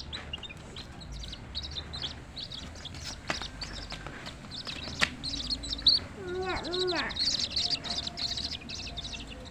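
Small birds chirping and twittering with quick, high-pitched calls, growing denser in the second half. About six seconds in, a lower call that rises and falls is repeated several times.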